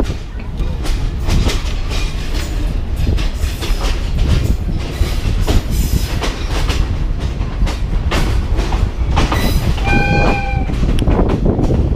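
Passenger train running along the track, the wheels clattering over the rail joints with a steady rumble. A short horn blast sounds about ten seconds in.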